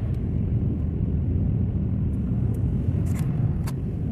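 Car driving on a snow-covered road, heard inside the cabin: a steady low rumble of engine and tyres, with a few light clicks scattered through the second half.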